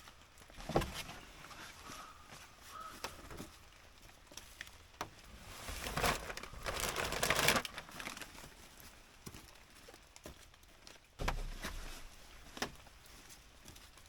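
Crinkling and rustling, loudest for a couple of seconds midway, with scattered light knocks and one dull thud later on.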